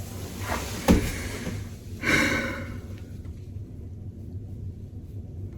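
A woman breathing out heavily: a loud sigh about two seconds in, after a short knock about a second in.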